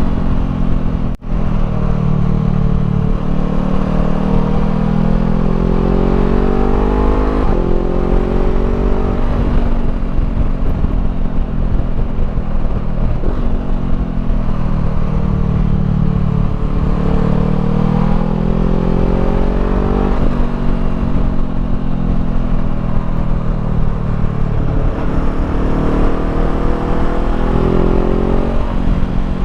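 Honda CBR500R parallel-twin engine through a Termignoni slip-on exhaust, heard on the move: the pitch climbs as it revs up, drops sharply at each gear change and climbs again, several times over, with steady wind rumble underneath. The sound cuts out very briefly about a second in.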